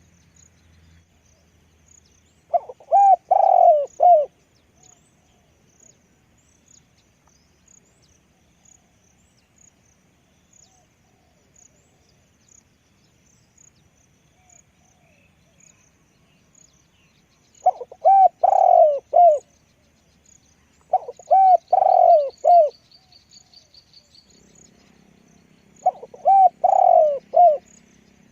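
Spotted dove cooing: four phrases of several rounded coo notes each, separated by long pauses.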